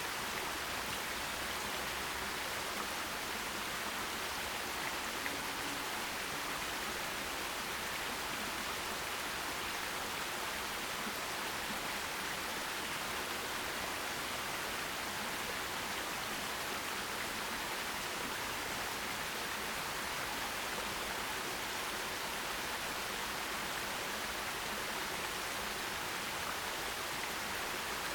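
Forest stream flowing, a steady even rush of water with no breaks or separate splashes.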